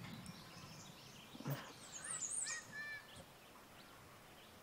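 Faint, scattered chirps of small songbirds, a few short arched calls about two to three seconds in, with a brief soft sound about a second and a half in.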